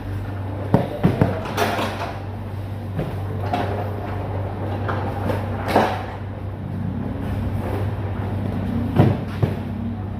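Cargo being unloaded from a truck: a steady low hum, likely the idling engine, under scattered knocks and clunks of goods being handled, loudest about six and nine seconds in.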